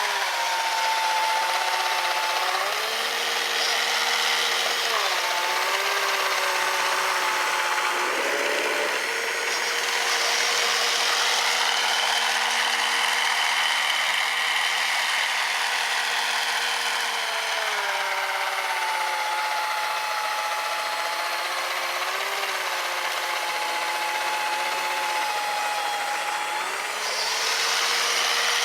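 Brushed 550 electric motor of a 3D-printed RC snowblower running, a whine that drops and rises in pitch several times, over a steady hiss.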